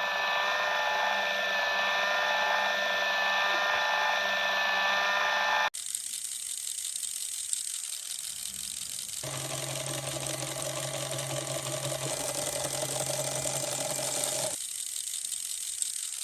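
Small electric gear motor of a model machine whirring steadily. The sound cuts off abruptly about halfway through and is replaced by a rougher running sound, with a low hum that drops out again near the end.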